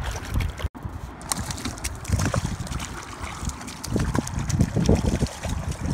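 A hooked fish thrashing at the water's surface beside the boat, making a run of irregular splashes that are loudest about four to five seconds in.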